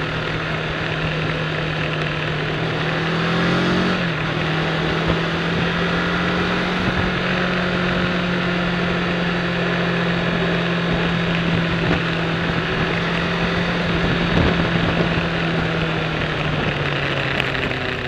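Sport motorcycle engine running at steady mid revs under a heavy rush of wind noise. Its pitch climbs for a few seconds, then drops suddenly about four seconds in, and it settles lower again near the end.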